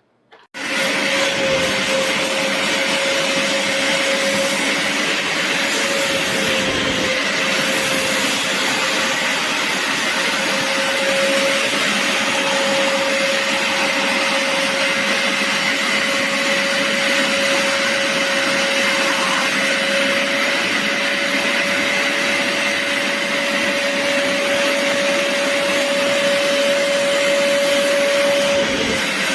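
BISSELL Little Green portable carpet and upholstery cleaner running: its suction motor switches on about half a second in and keeps up a steady whine with a held tone.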